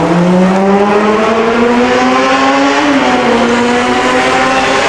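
A motor vehicle's engine accelerating on the street, its pitch rising steadily over several seconds with a brief dip about three seconds in.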